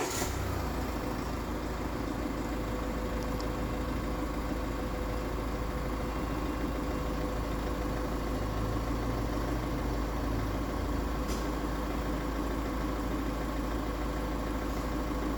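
Land Rover Discovery Sport engine idling steadily after being started remotely from a smartphone alarm.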